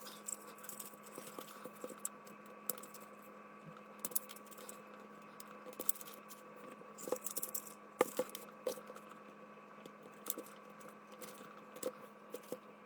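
Faint, sped-up clicking and tapping of tweezers and small plastic and metal parts as terminals are worked out of a car fuse box's connectors, over a steady hum.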